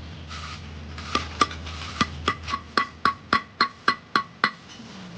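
About a dozen sharp, hard taps, each with a short ringing note, coming a little over three a second and starting about a second in. A low steady hum underneath fades out midway.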